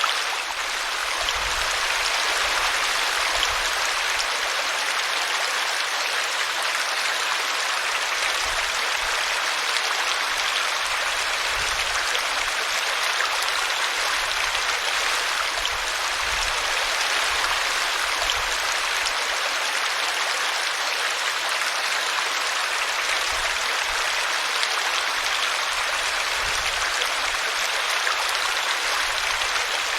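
Small brook running steadily, water splashing over a tree root.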